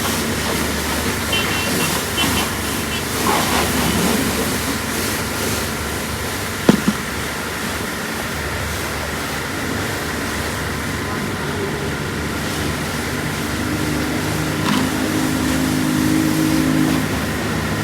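Steady mechanical hum over a constant rushing noise, with one sharp knock about seven seconds in and a low droning tone added in the last few seconds.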